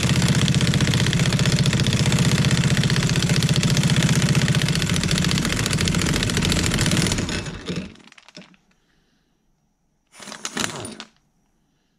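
Impact wrench hammering at a hydraulic cylinder's piston nut, a long continuous rattle of rapid blows of about seven seconds, then a brief second burst a couple of seconds later. The nut is held with red Loctite.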